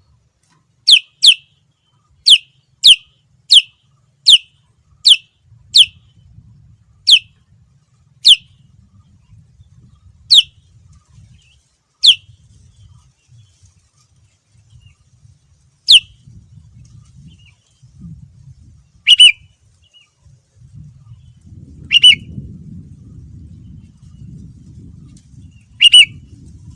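Sooty-headed bulbul (kutilang) giving short, sharp falling chirps, about two a second at first, then single calls a few seconds apart. The last three calls are rougher. A faint low rumble runs under the second half.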